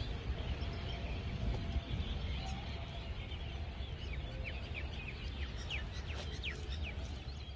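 Birds chirping: many short, quick downward-sweeping calls, busiest in the second half, over a steady low outdoor rumble.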